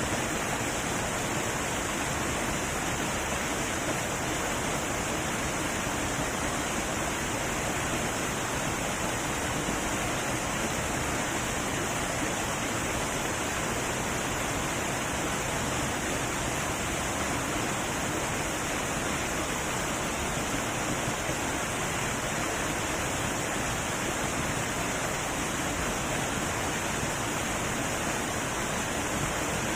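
Heavy waterfall rushing steadily, a constant roar of falling water with no breaks.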